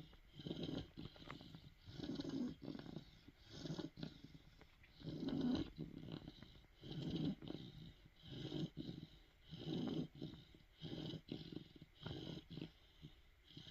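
Cane Corso (Italian mastiff) puppy snoring in its sleep, a steady rhythm of rasping breaths about every one and a half seconds.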